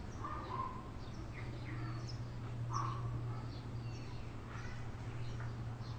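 Birds calling outdoors: many short chirps and a few louder calls, two of them about a third of a second and nearly three seconds in, over a steady low hum.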